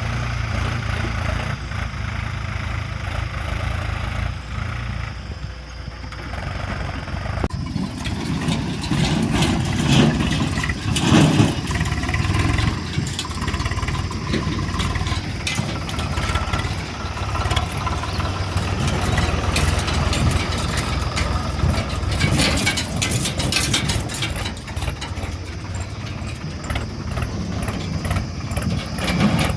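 Diesel engines of a backhoe loader and a tractor running steadily while mud is loaded into a tractor trolley. Bursts of clattering come about a third of the way in and again past the middle.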